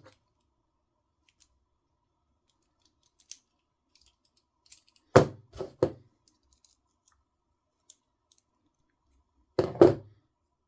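Sharp knocks and clicks from hand tools and small parts being handled on a workbench while a ball stud is screwed onto an RC car's aluminum steering bell crank: faint ticks, then three quick knocks about five seconds in and two more near the end.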